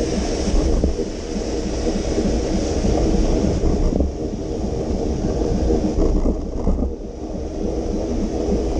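Wind rumbling on the microphone of a moving bicycle, with a steady hiss of tyres on wet pavement in the rain.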